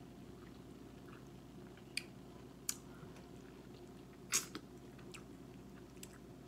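Mouth sounds of someone chewing shrimp in creamy Alfredo sauce: about six short, sharp, wet clicks and smacks, the loudest a little past the middle, over a low steady hum.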